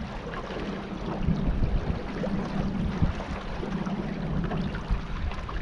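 Boat out on the water: wind buffeting the microphone with a steady low rumble and water noise.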